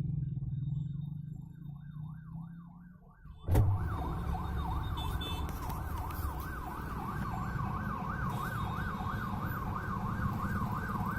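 Emergency vehicle siren wailing rapidly up and down, about three cycles a second, over a low engine and traffic rumble. It is faint at first and becomes much louder after a sharp click about three and a half seconds in.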